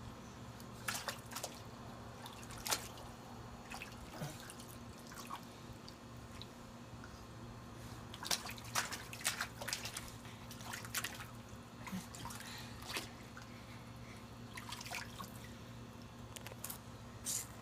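Water dripping and splashing in irregular small splashes as a shirt is washed by hand, over a steady low hum.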